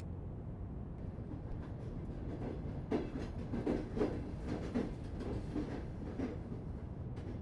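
Train running on rails: a steady low rumble with soft, uneven clickety-clack knocks of the wheels over the rail joints.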